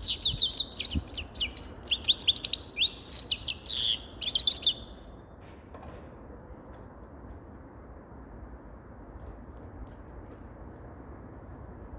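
Grey-headed goldfinch singing a fast run of rapid chirps and trills, which stops about five seconds in, leaving only low steady background noise.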